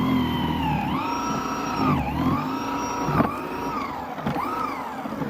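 A battery-powered electric snow thrower's motor whines steadily while clearing snow. Its pitch dips and recovers several times as it bites into the snow.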